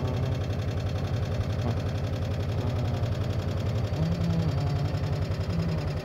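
Car engine running inside the cabin with a steady, rhythmic low throb, and a person humming a few held notes over it, one about four seconds in.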